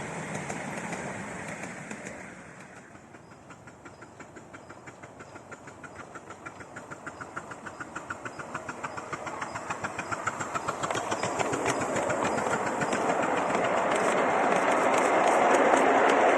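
Steam locomotive working hard, its exhaust chuffing evenly at about four beats a second and getting louder as it approaches. It ends in a loud rushing clatter as the train passes close.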